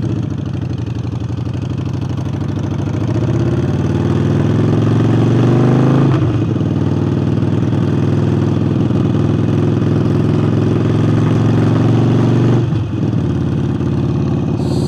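Harley-Davidson Forty-Eight's 1200 cc V-twin, breathing through a new aftermarket air intake, running under way. The engine pulls up in pitch with a gear shift about six seconds in and another near the end.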